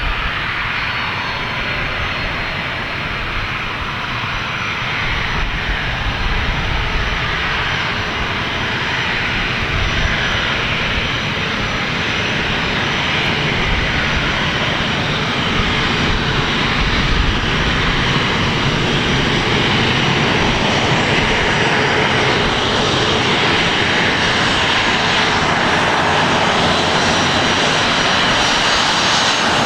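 Boeing 737-400 airliner's CFM56 turbofan engines running with a steady jet roar that grows slowly louder.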